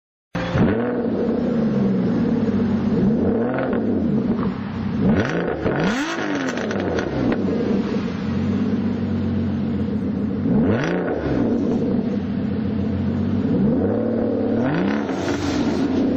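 Aston Martin Vanquish's 5.9-litre V12 engine being blipped repeatedly, its pitch rising and falling back to idle between revs, several times, with the highest rev about six seconds in.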